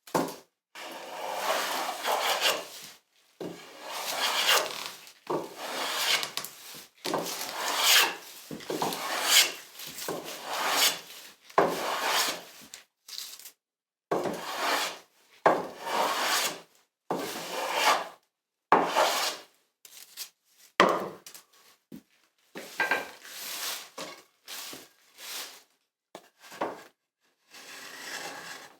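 A hand tool is worked stroke after stroke across a wooden board to cut a moulding profile. Each pass makes a rasping, scraping sound lasting about a second or two, with a short pause before the next.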